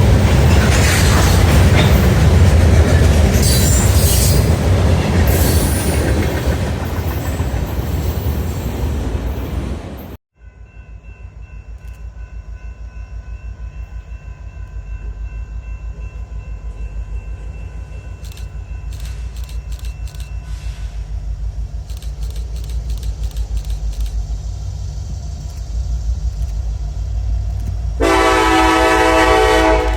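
Freight train rolling past close by, a loud rush of wheel and rail noise that stops abruptly about ten seconds in. After that, diesel locomotive engines rumble with a rapid, even throb, and a locomotive air horn sounds one loud blast near the end.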